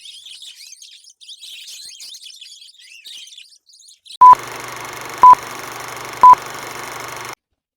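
Budgies chattering in short, high chirps for about four seconds. Then three very loud single-pitch electronic beeps, about a second apart, sound over a steady hiss that cuts off suddenly.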